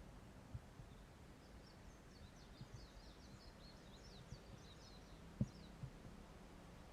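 Faint songbird twittering in a quick run of high notes lasting a few seconds, over near-silent outdoor quiet. Soft low thumps sound here and there, one louder than the rest about five and a half seconds in.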